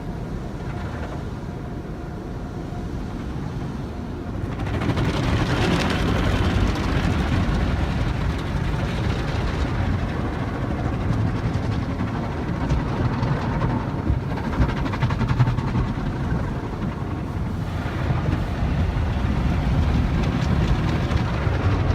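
Automatic tunnel car wash heard from inside the car: a steady rush of water and wash machinery over the bodywork, getting louder about four and a half seconds in, with a couple of short lulls later.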